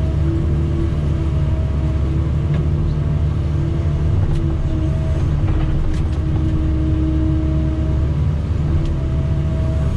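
Diesel engine of a working excavator or skid steer running steadily, with a higher steady tone above the engine note that stops and starts again several times.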